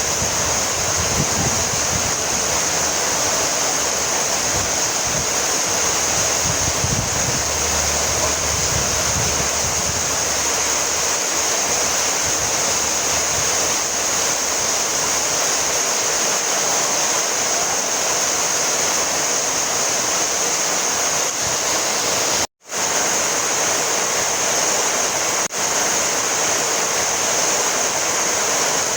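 Heavy rain falling steadily, an even hiss of drops, with a momentary cut to silence about three-quarters of the way through.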